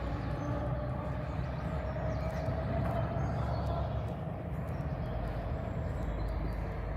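Steady outdoor background rumble, heaviest in the low range, with a faint hum that climbs slightly in pitch over the first few seconds and then holds.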